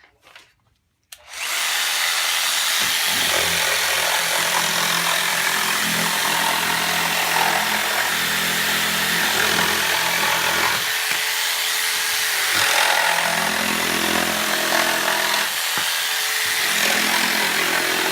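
Bosch JS572EB jigsaw starting up about a second in and cutting through wood on orbital setting 2, running loudly and steadily under load with a couple of brief dips as the cut is pushed.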